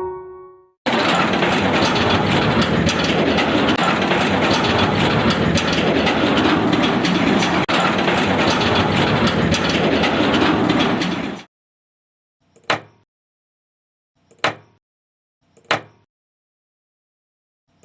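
Loud, steady rattling mechanical noise for about ten seconds, cutting off suddenly, followed by a few short sharp knocks a second or two apart.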